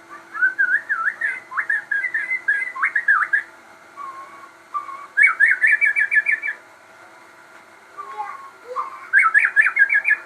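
Crossbred murai songbird singing loudly and continuously: a string of varied whistled notes, then fast runs of repeated notes about five seconds in and again near the end. A faint steady hum lies under the song.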